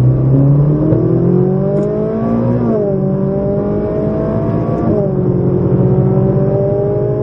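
Ferrari 458 Italia's 4.5-litre V8 accelerating hard through the gears, heard from inside the cabin. The engine note climbs, drops at an upshift about three seconds in, climbs and drops at a second upshift about five seconds in, then climbs slowly again.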